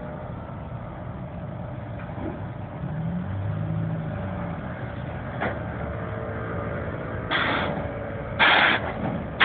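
Vehicle engine running with a low rumble, its pitch rising briefly about three seconds in, and two short loud bursts of hiss near the end.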